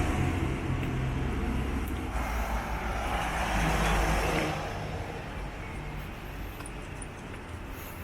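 A car driving past on a road, its engine and tyre noise swelling to a peak about three to four seconds in and then fading away.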